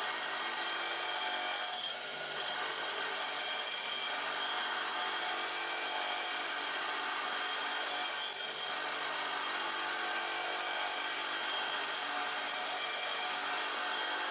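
Bench grinder running with a roughing gouge's steel being ground against the wheel: a steady grinding hiss over the motor's hum, briefly easing about two seconds in and again about eight seconds in.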